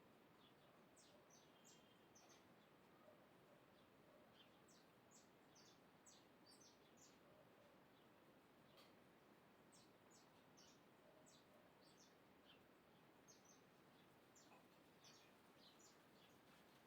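Faint, high, short bird chirps in scattered clusters over a quiet, steady background hiss.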